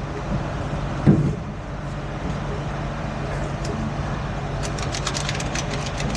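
A truck engine idling steadily, with a single knock about a second in and a quick run of sharp clicks near the end.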